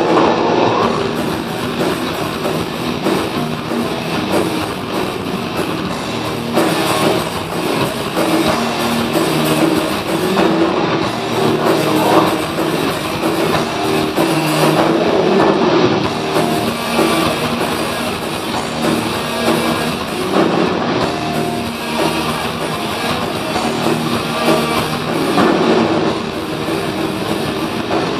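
Heavy metal band playing live: loud distorted electric guitars and drums in a dense, continuous wall of sound, heard through a crowd-held recorder.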